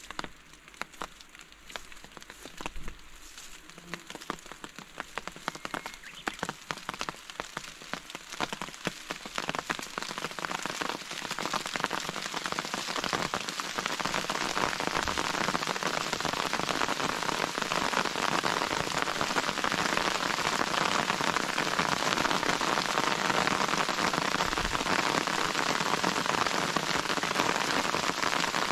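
Rain falling: scattered separate drops at first, which build into a steady, dense patter within about ten seconds and then hold.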